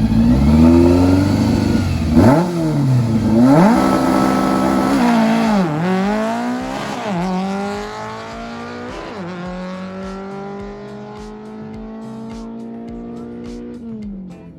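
Volkswagen drag-race engine at full throttle, its pitch climbing and dropping sharply at each of several gear changes, then holding a steadier drone that fades near the end.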